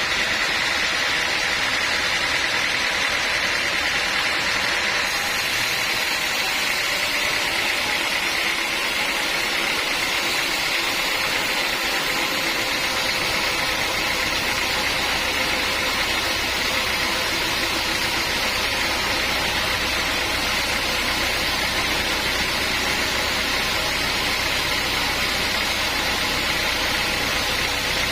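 Sawmill machinery running steadily, a continuous, unbroken mechanical noise.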